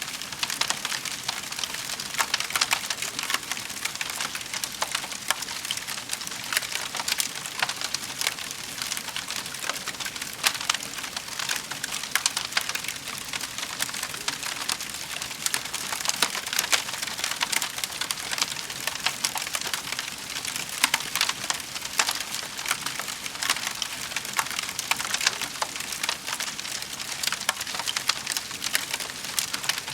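Fire crackling in a fireplace: a steady hiss with many small, irregular pops and snaps throughout.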